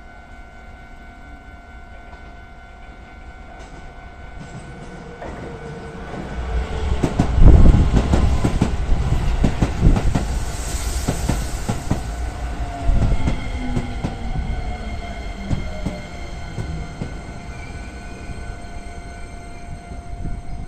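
Keisei electric train running into the station: a rumble of wheels with rapid rail-joint clicks that grows loud about six seconds in, peaks soon after and then eases, with a motor whine falling in pitch later on.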